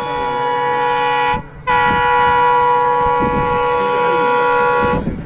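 Train horn sounding two long blasts. The first ends about a second and a half in. The second follows after a short gap, lasts about three seconds and cuts off.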